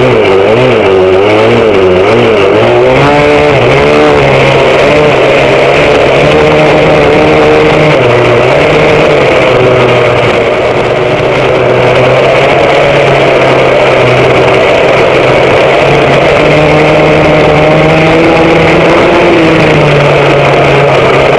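Small two-stroke vintage racing kart engine running hard on track, heard from on board: its pitch wavers rapidly up and down over the first few seconds, then holds mostly steady with small rises and drops. A second kart engine runs alongside at a slightly different pitch.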